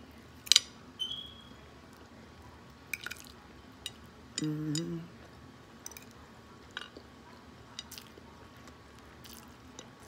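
Close-up eating sounds: a person chewing a forkful of food, with a sharp click about half a second in and scattered small wet mouth clicks. A short hummed voice sound comes about halfway.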